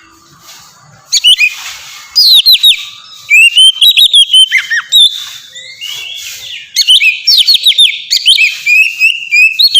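Oriental magpie-robin (kacer) singing loudly: fast runs of whistled and chirped notes in bursts with short breaks, starting about a second in.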